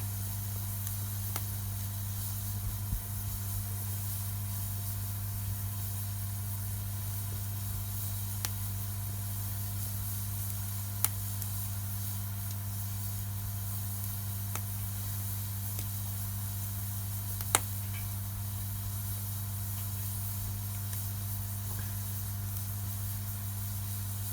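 Wood fire burning, with a faint hiss and a few sharp, scattered pops, the loudest about eleven and seventeen seconds in, over a steady low hum.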